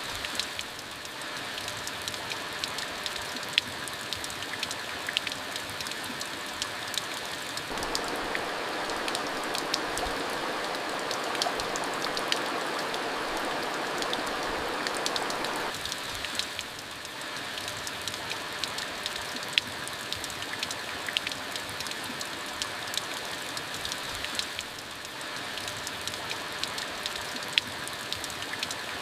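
Steady rain falling, an even hiss dotted with sharp taps of single drops. The downpour thickens for several seconds around a third of the way in.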